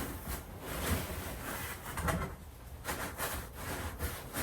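Irregular rustling and light knocks: a plastic-and-fabric Halloween prop being handled.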